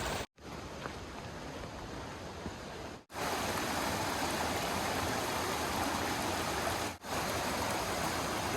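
Stream water rushing over rocks, a steady rushing noise. It cuts out briefly three times and restarts, a little louder in the middle stretch.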